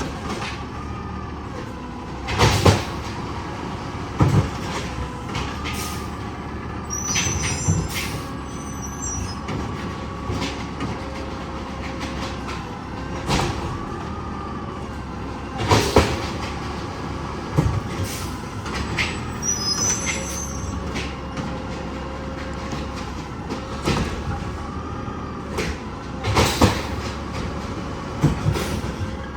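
Garbage truck working with its engine running steadily. Loud bangs come in pairs and are followed a few seconds later by brief high squeals, a cycle that repeats about every 11 seconds, typical of a truck emptying carts into its hopper.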